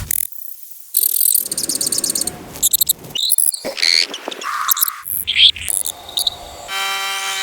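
A quick succession of short, abruptly cut animal calls: a fast-pulsing high trill like a cricket's, then scattered chirps, and near the end a held call with a rich stack of tones.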